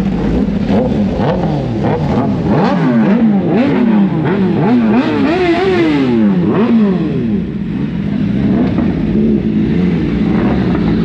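Superbike engines revved in a rapid string of throttle blips, the pitch rising and falling about twice a second with sweeps overlapping, then settling back to a steady idle about seven seconds in.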